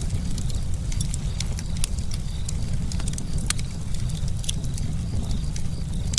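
Campfire crackling: a steady low rumble of burning wood with many sharp, irregular pops and snaps, several each second.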